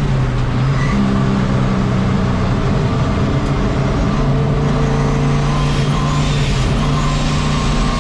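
Turbocharged engine of a 1951 Chevy race truck running at a steady pitch while the truck is driven on track.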